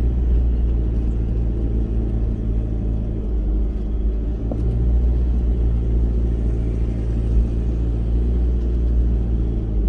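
A 4x4's engine running steadily with a low rumble as it drives along a rough track, its note dipping briefly a few seconds in.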